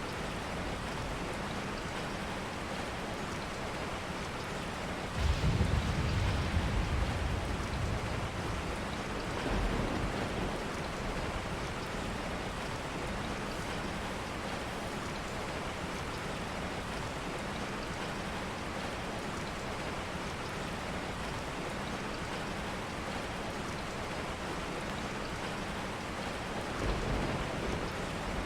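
Steady rain falling. A low rumble swells about five seconds in and dies away over a few seconds, with a smaller one near the end.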